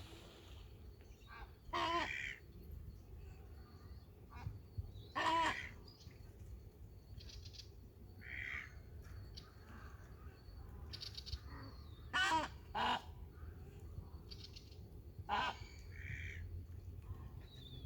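Large birds calling: about five loud calls spread through, with softer calls between them.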